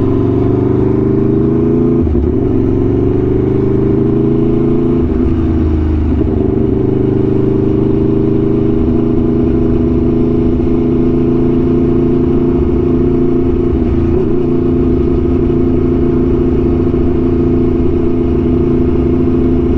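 Aprilia Tuono V4 1100's V4 engine through an SC-Project exhaust, riding at fairly steady revs. The pitch climbs a little in the first few seconds, then holds steady with a couple of small dips.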